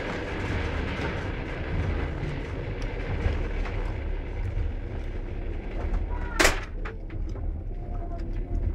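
Steady low rumble of a passenger train running, heard from inside the carriage, with one sharp loud bang about six and a half seconds in.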